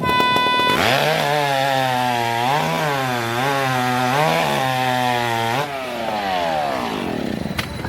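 A short beep, then a chainsaw engine running with its pitch rising and falling as the throttle is worked, winding down in pitch after about five and a half seconds.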